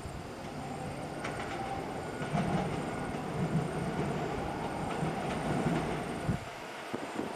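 Electric train running on the track: a steady rumble, with repeated clatter of wheels over rail joints from about two seconds in that fades away near the end.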